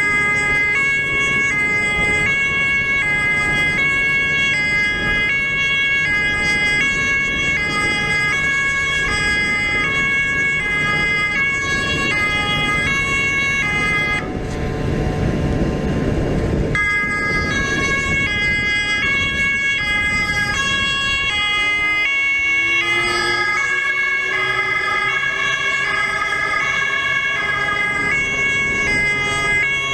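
Two-tone emergency siren switching between a high and a low note about every half second, with a vehicle engine running underneath. About fourteen seconds in, a rush of noise briefly drowns the siren for a couple of seconds. Around twenty-two seconds in, the engine's pitch rises.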